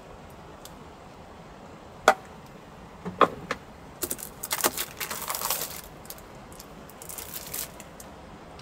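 Small hard objects being handled: two sharp clicks, then jingling, clinking clatter in two stretches, like keys or metal utensils being moved about.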